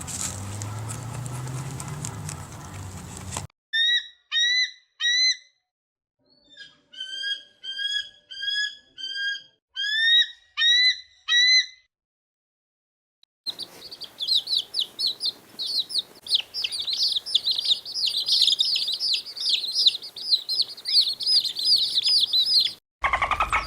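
Bird calls: clear whistled notes, each sliding upward, repeated about twice a second, then a dense, fast run of high chirps that cuts off suddenly. They follow a few seconds of low, noisy background sound.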